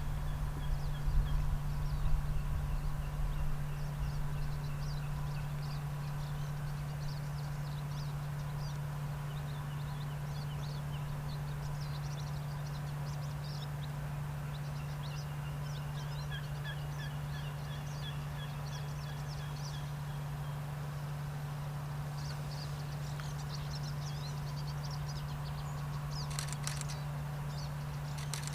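Small birds chirping on and off, over a steady low hum, with wind rumbling on the microphone in the first few seconds.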